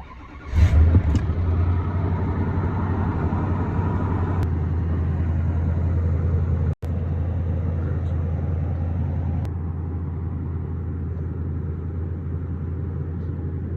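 Nissan Titan pickup's engine on a cold start: it cranks briefly, catches within the first second and flares to a high idle, then runs steadily. The idle settles lower twice as it goes. The sound cuts out for an instant about seven seconds in.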